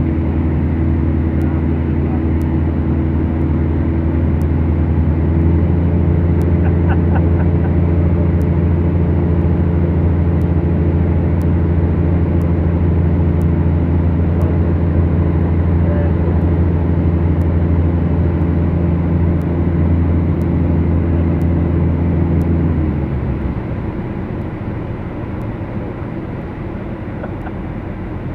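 Beechcraft Duchess's twin piston engines and propellers droning steadily. The drone steps up a little about five seconds in, then falls away sharply about five seconds before the end as power comes back, and carries on lower.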